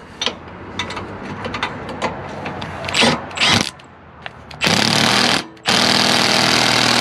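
Impact gun running down the spring-loaded exhaust bolts: two bursts of rapid hammering, a short one and then a longer one of nearly two seconds, after some lighter clatter of tool and hardware.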